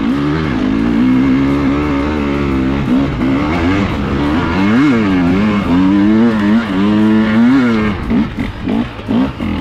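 Enduro motorcycle engine under throttle as the bike climbs a trail, its pitch rising and falling with the throttle and spiking sharply about five and seven and a half seconds in. Near the end it drops to short, choppy blips of throttle as the bike slows.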